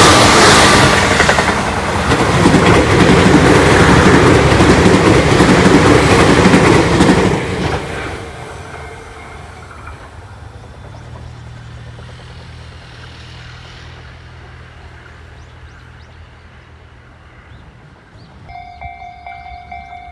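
Tobu 8000-series electric train running past close by, loud, then fading away about eight seconds in as the last cars go. Near the end, a steady ringing tone starts.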